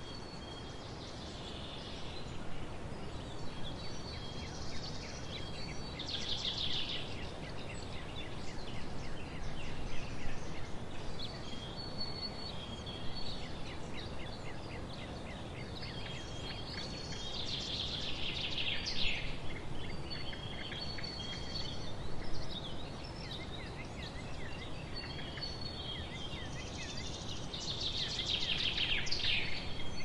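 Songbirds singing over a steady outdoor background hiss. Thin high whistled notes come and go throughout, with three louder, quick song phrases roughly ten seconds apart.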